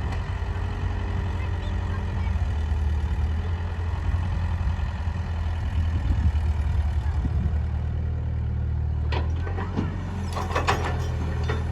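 Heavy diesel engine running steadily while soil is being loaded, with a burst of clattering and knocking about nine seconds in.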